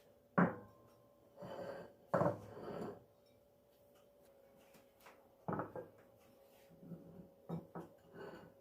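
Kitchen handling sounds: dishes and utensils knocked and set down a few times, with two longer stretches of rubbing or scraping near the start, over a faint steady hum.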